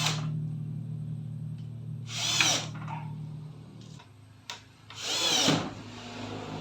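Power drill running with a steady motor hum that drops in pitch about four seconds in, and two short louder bursts about two and five seconds in.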